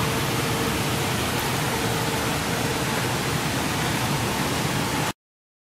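Steady rushing of waterfall cascades, an even hiss with no rhythm, which cuts off suddenly near the end.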